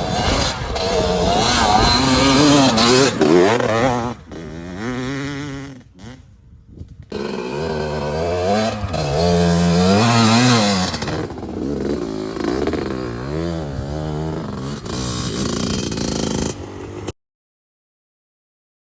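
2001 Gas Gas EC 300's single-cylinder two-stroke engine revving up and down repeatedly under riding, briefly dropping away about six seconds in. The sound cuts off abruptly near the end.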